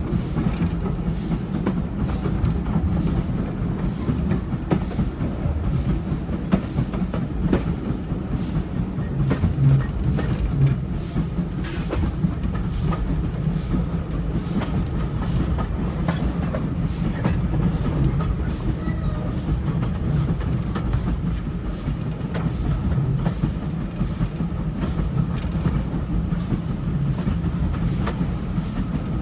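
Steam-hauled passenger train running, with a Stanier Black 5 4-6-0 at the head: steady rumble with a constant run of wheel clicks over the rail joints.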